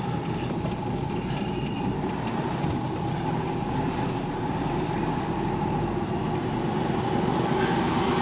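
HGV truck running with a steady engine and road rumble that does not change.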